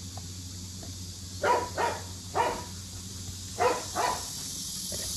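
A dog giving five short barks in three small groups, over a steady low background hum.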